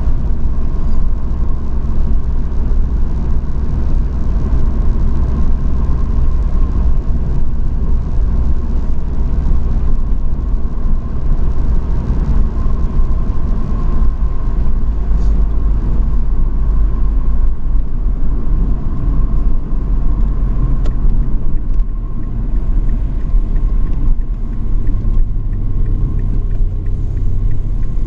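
Truck cab noise while driving: a steady low rumble of engine and road, with a faint steady whine above it. About three seconds before the end a deeper steady engine note comes in.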